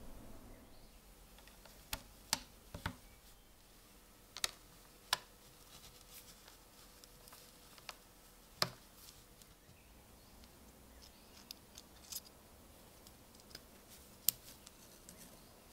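Scattered sharp little clicks and taps, about a dozen at irregular spacing, from hand work on a small folding pocket knife and its parts.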